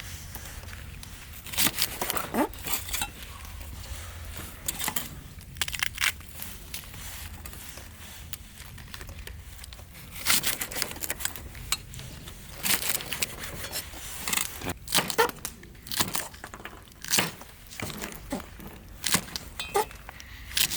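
Irregular rustling and crinkling with scattered sharp clicks and knocks, the sound of things being handled.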